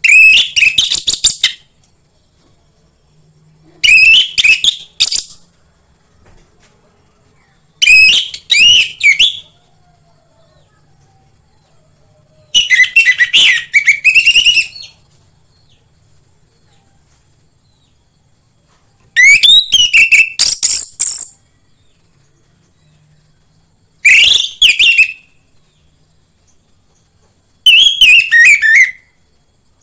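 Orange-headed thrush singing: seven loud phrases of fast, varied whistles, each one to two seconds long and a few seconds apart. A steady, faint, high hiss runs underneath.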